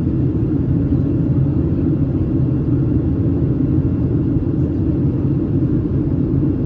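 Steady, even rumble of a Boeing 737-700 in flight heard from inside the cabin: the drone of its CFM56-7B jet engines mixed with airflow noise over the fuselage, holding constant.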